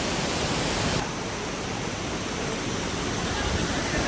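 Waterfall: a steady, even rush of falling water with no distinct events, its sound shifting slightly about a second in.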